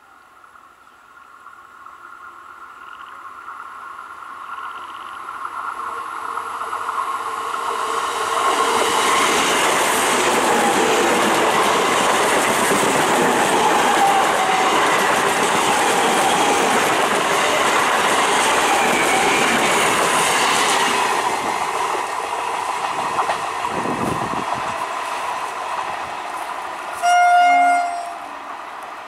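Electric multiple unit local train approaching, then passing close by at speed, its wheels rumbling and clattering over the rails. The sound builds over about eight seconds, stays loud for about twelve, then fades. Near the end comes a single train horn blast of about a second.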